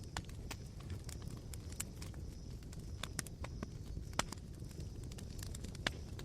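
Campfire of smouldering embers crackling: irregular sharp pops and snaps, a few louder than the rest, over a low steady rumble.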